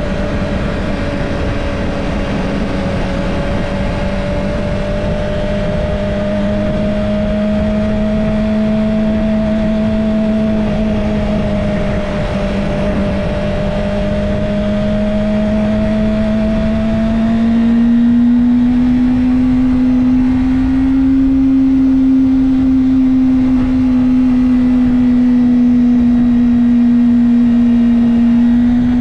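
Kawasaki Ninja ZX-25R's 249 cc inline-four engine running at a steady cruise. Its note rises a little in pitch and gets slightly louder about two-thirds of the way in.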